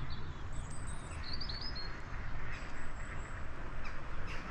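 Riverside birds chirping faintly: a few short, high chirps about a second and a half in, over a steady outdoor rush.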